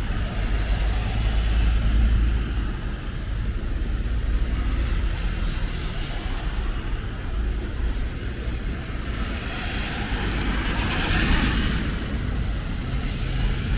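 Street traffic on a rain-wet road: a steady low engine rumble, with a car passing about ten seconds in, its tyres hissing louder and then fading.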